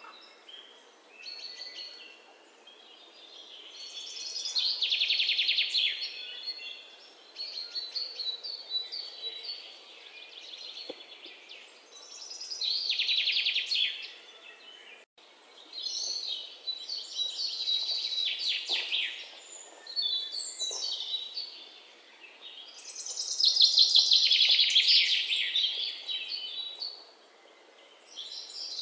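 Wild birds singing: loud song phrases of two to three seconds each, made of rapid trills, come every few seconds, with quieter chirping between them. There is a brief break in the sound about halfway through.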